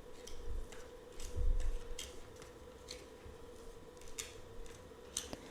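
Tarot cards being handled close to the microphone: scattered short clicks and taps of card stock, with a few soft low bumps.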